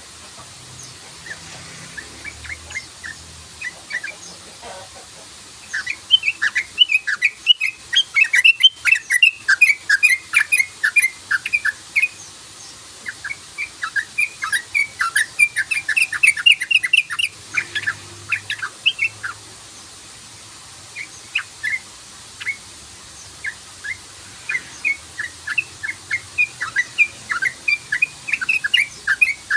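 Yellow-vented bulbul (trucukan) giving its rapid 'cruk-cruk' chatter: long runs of short, quick chirping notes, densest in two stretches in the first half and sparser in the second.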